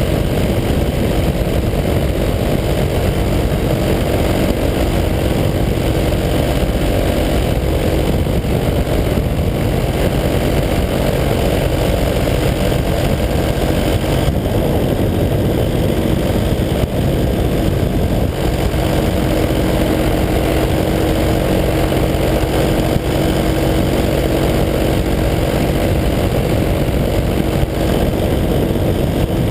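The two-stroke engine and propeller of a 185 cc paramotor run at a steady cruising throttle in flight, a constant loud drone with no change in pitch.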